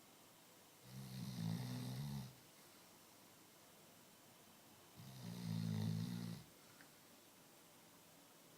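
A sleeping Labrador retriever snoring: two long, low snores about four seconds apart, each with a hiss of breath over it.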